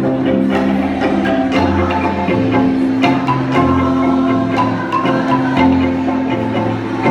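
Kolintang ensemble of wooden mallet xylophones playing: quick repeated mallet strikes over long held low notes.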